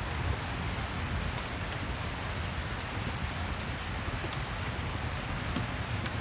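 Steady rain with a low rumble underneath and scattered faint ticks, from a rain-and-fireplace ambience track.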